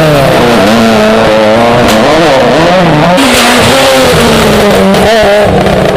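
Rally car engine at full effort, very loud, its pitch climbing and dropping several times through gear changes and lifts, with a couple of sharp cracks and a rush of hiss about two to three seconds in.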